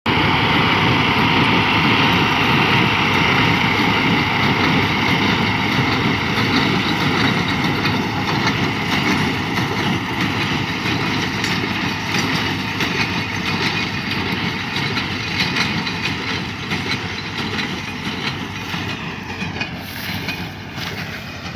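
Romanian tractor running with a Welger baler: a loud, steady mechanical noise of engine and machinery that slowly fades.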